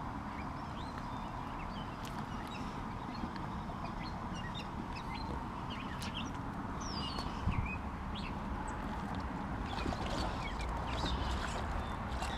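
Steady background hiss with scattered short, high chirping calls from small animals, and a dull thump about seven and a half seconds in.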